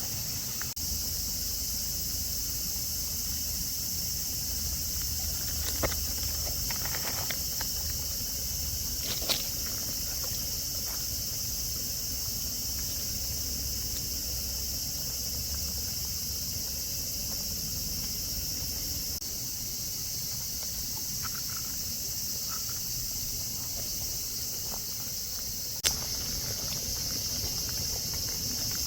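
Steady high-pitched chorus of insects under a low rumble, with three short sharp knocks, the loudest near the end.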